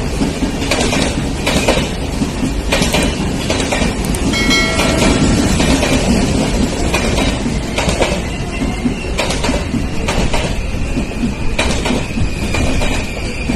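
Indian Railways LHB passenger coaches rolling past at speed: a steady low rumble with an uneven run of sharp clacks as the wheels cross rail joints. A brief high tone sounds about four to five seconds in, and a thin high wheel squeal comes in near the end.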